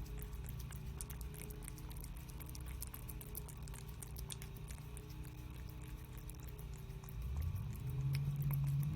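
A cat eating canned wet food, with many small wet chewing and licking clicks over a steady low hum. About seven seconds in, a low droning tone rises in pitch and gets louder.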